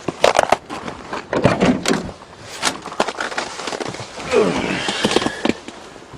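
Clunks and knocks from the cab door of an old Ford pickup being handled, with a creak that falls in pitch partway through.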